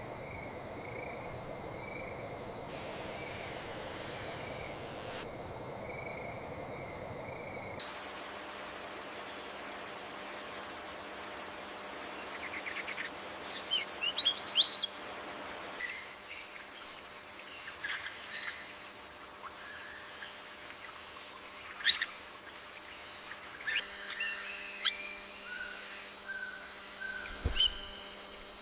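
Rainforest ambience: assorted bird chirps and short calls over a steady high-pitched background drone. The background changes abruptly several times, and the bird calls get busier after about eight seconds.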